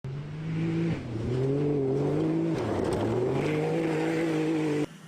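Off-road rally vehicle's engine under hard acceleration, dropping in pitch twice as it shifts up a gear, then holding steady. It cuts off abruptly near the end.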